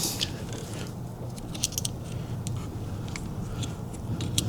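Small metal tool scraping and clicking against parts inside a car's steering column, with scattered light ticks and short scrapes over a low steady hum.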